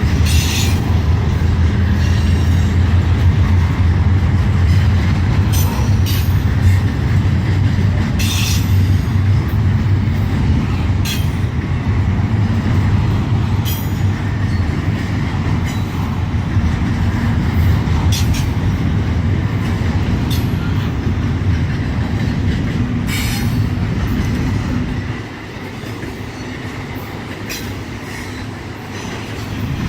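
CSX intermodal freight train rolling out of the yard: a steady low rumble, with brief wheel squeals every few seconds. The rumble drops about 25 seconds in and picks up again near the end.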